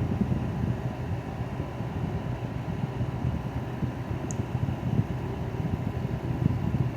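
LG 6000 BTU window air conditioner running steadily on cooling, its fan blowing with a low whooshing hum and a faint steady tone above it.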